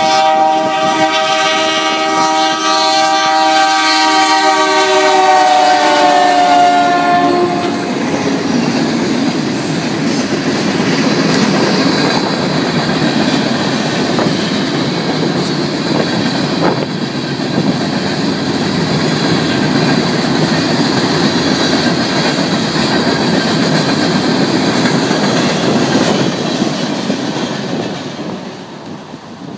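R.J. Corman freight locomotive's air horn holding one long blast that stops about eight seconds in. The blast is part of only two blasts sounded for the road crossing, in place of the standard four-blast crossing signal. A fast train of empty steel gondola cars then rumbles and clatters through the crossing, with a few sharp clanks, before fading near the end.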